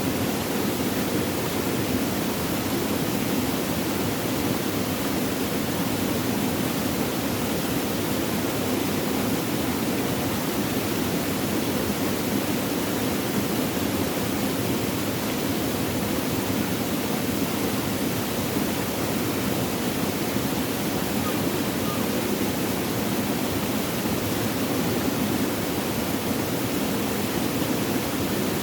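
Flowing water, a steady, even rushing with no breaks or changes.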